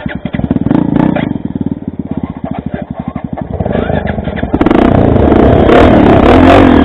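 Motorcycle engine running at low revs, its separate firing pulses plainly audible, then turning suddenly louder and rougher about four and a half seconds in as the throttle opens.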